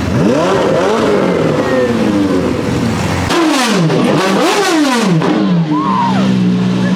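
Exotic car engine revved in a series of sharp blips, its pitch rising and falling with each one, then settling to a steady idle about two-thirds of the way through.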